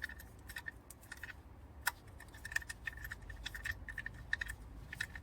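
Socket ratchet clicking in short runs of metallic clicks as the oil filter cap is tightened back down.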